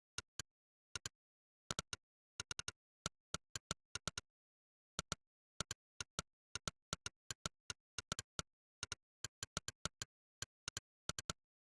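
Monkeytype's "click" keypress sound effect, one short click for each key typed, coming in an uneven typing rhythm with small pauses and quick runs, over dead silence. The clicks stop a little before the end.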